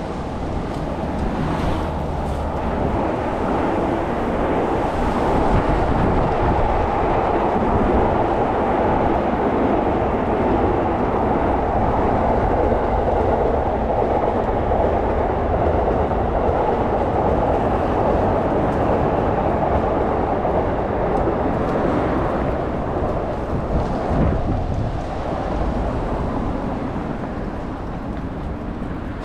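A steady rumbling noise that swells over the first few seconds, holds, and eases off near the end.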